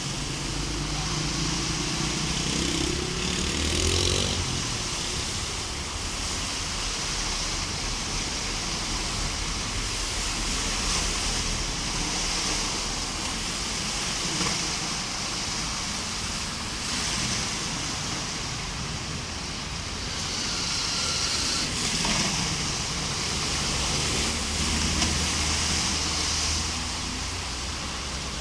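Heavy rain and floodwater rushing down a street in a steady wash of noise, with car engines passing through the water near the start and again about two-thirds of the way in.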